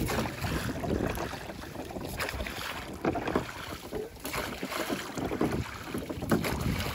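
Wind buffeting the microphone aboard a small pleasure boat on a lake, with gusty, uneven water and wind noise.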